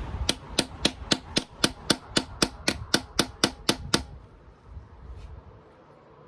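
Hammer tapping on a socket set over a small sealing cap, driving the cap into the V of a Mercedes M113 V8 engine block to stop an oil leak. About fifteen quick, even taps, roughly four a second, each with a short metallic ring, stopping about four seconds in.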